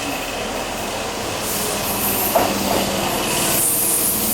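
Keihan 6000 series electric train running, a steady rumble and hiss. A short knock comes about halfway, after which a steady low hum holds.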